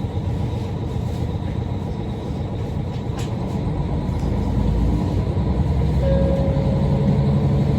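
Diesel railcar of the Dōnan Isaribi Railway running: a steady low rumble of engine and wheels. A low hum comes in about six seconds in and the sound grows louder toward the end.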